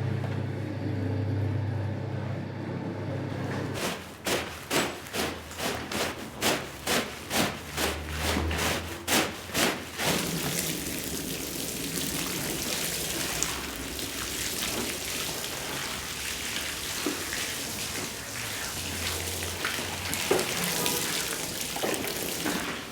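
A low machine hum for the first few seconds, then about a dozen rhythmic swishing strokes, roughly two a second. From about ten seconds in, a steady hiss of water spraying onto the rug.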